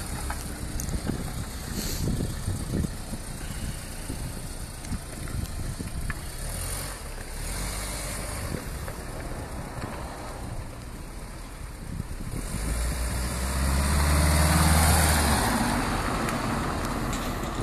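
BMW E30 pickup truck's engine running as the car drives around, the engine note growing louder for a few seconds late on before easing off.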